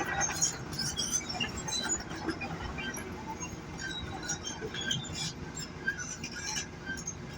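Bulldozer working: a steady low engine hum with many short, scattered light ticks and clinks over it.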